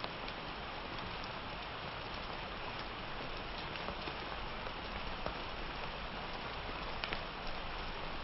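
Steady summer rain falling, with scattered sharper drops landing close by, the loudest a little after seven seconds in.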